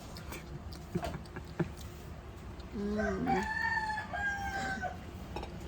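A rooster crowing once, about three seconds in: a short rising start and then a long held note lasting around two seconds.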